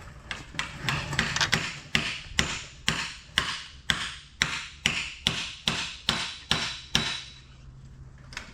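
Steady hammering, about two and a half blows a second, on a part of a corn head being reassembled, stopping about seven seconds in.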